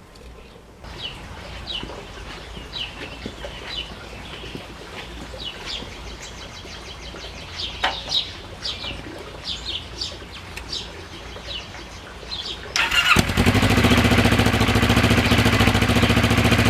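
Small birds chirping with many short, sharp calls. About 13 s in, a motorcycle engine comes in loud and runs steadily.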